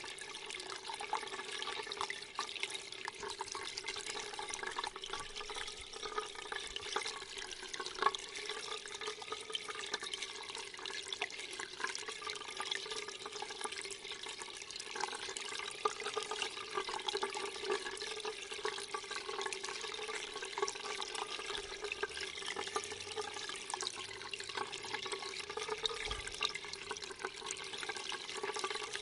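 Water running steadily, with many small splashes and drips.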